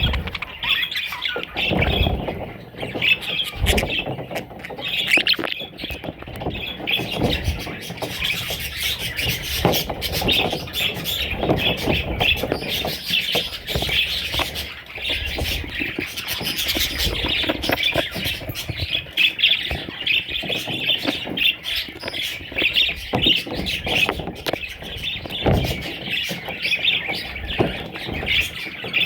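A flock of budgerigars chirping and chattering continuously, with rapid warbling calls and the occasional squawk.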